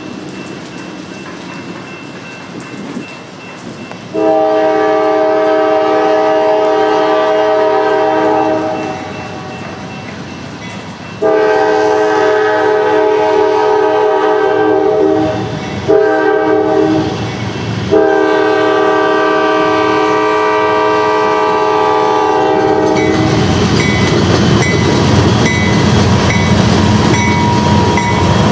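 Locomotive air horn sounding the long-long-short-long grade-crossing signal as a train approaches. The train then passes close, its rumble and wheel clatter over the rails filling the last few seconds.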